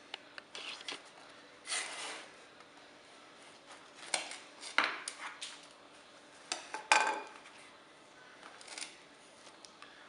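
Kitchen utensils and dishes handled while plating food: scattered clicks, clinks and short scrapes of cutlery against crockery, the loudest near seven seconds in.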